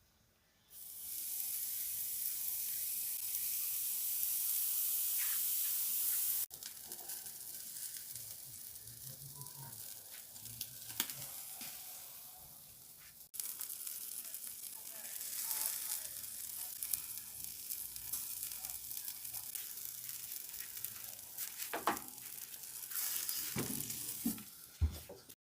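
Boneless chicken legs sizzling on a grill: a steady hiss that cuts off abruptly twice and comes back quieter, with a few sharp clicks near the end.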